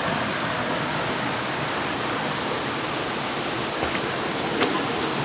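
Waterfall on a river: water rushing in a steady, even roar of noise, with a couple of faint clicks about four seconds in.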